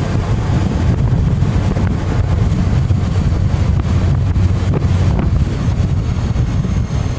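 Wind buffeting the microphone of a phone mounted on a motorcycle windshield while riding, a loud, steady rumble with the motorcycle's engine running underneath.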